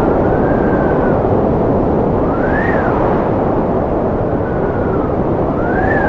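Strong wind blowing steadily, with whistling howls that rise and fall in pitch several times.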